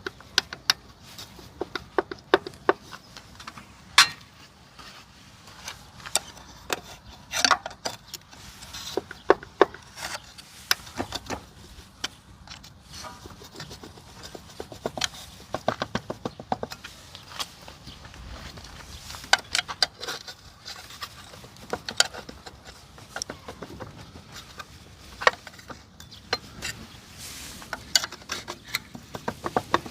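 Irregular clicks and clinks of small metal parts and tools being handled while a scooter carburetor is taken apart and cleaned, with a quick run of clicks about halfway through.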